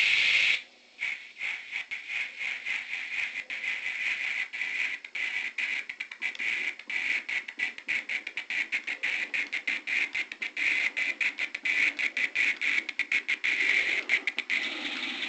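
Sound from a model locomotive's sound decoder coming through its small speaker in a stuttering way, cutting out and back in many times a second, and steadying near the end. The faulty speaker is what makes the locomotive misbehave.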